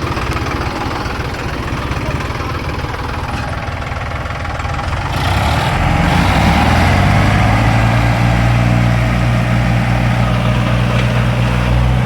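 Tractor's diesel engine running, then speeding up and growing louder about five and a half seconds in, holding a heavy, steady note as it is put to the pull.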